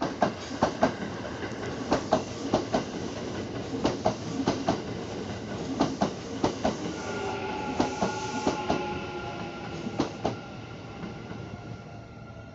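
Kintetsu Hinotori limited express train running by, its wheels clicking over rail joints in quick clusters. A steady whine joins about seven seconds in, and the sound slowly fades near the end.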